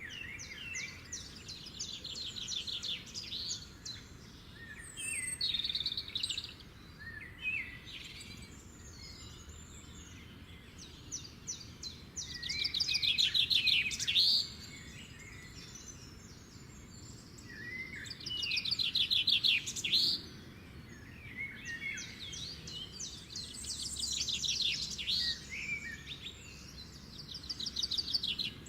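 Songbirds singing in a morning chorus: fast trilled phrases that come back every few seconds, mixed with shorter chirps, over a faint steady background hiss.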